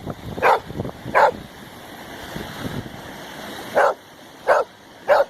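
A dog barking: two sharp barks close together, a pause of a couple of seconds, then three more at an even pace.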